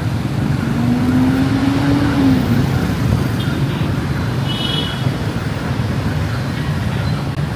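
City traffic and motorbike engine noise heard from a moving motorbike: a steady, loud rush of engines and road noise, with a short low tone rising slightly about a second in.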